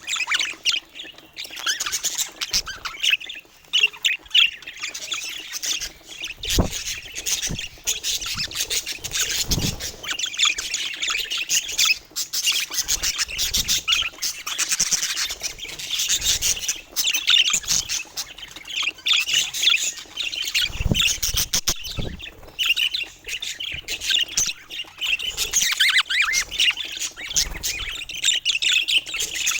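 Budgerigars chattering and warbling without pause, a dense mix of chirps and squawks, with a few brief low thumps.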